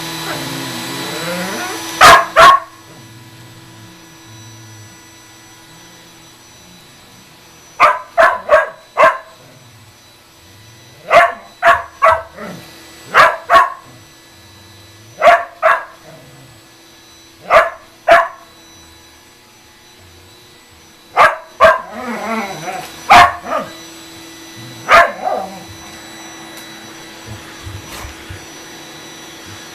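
Shetland sheepdog barking in short runs of one to four barks every few seconds, over the steady hum of a running vacuum cleaner.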